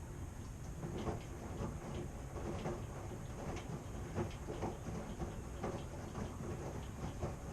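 Washing machine running: a steady low rumble under irregular knocks and clicks, a few a second, as the load tumbles in the turning drum.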